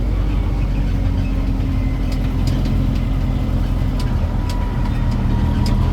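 Tourist road train's engine running steadily, heard from aboard, with a few light rattling clicks.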